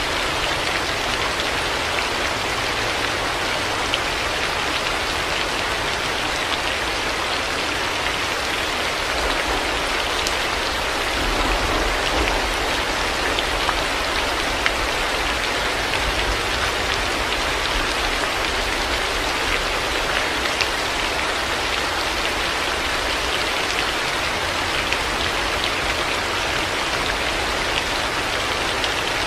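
Heavy rain falling steadily, a dense patter with scattered individual drop ticks over a low rumble that swells slightly for a few seconds midway.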